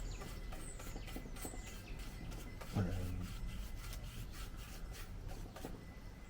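A paintbrush scrubbing wood stain into the carved wood of a bird box, in quick repeated scratchy strokes. A brief low pitched sound comes about three seconds in.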